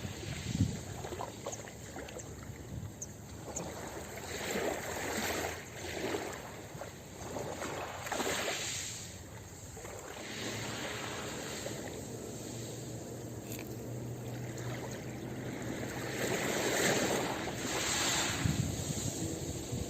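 Ocean surf washing up on a beach, the waves swelling and falling back in repeated surges, with a calmer stretch in the middle.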